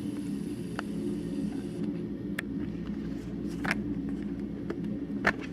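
Steady low mechanical hum with a few faint clicks scattered through it.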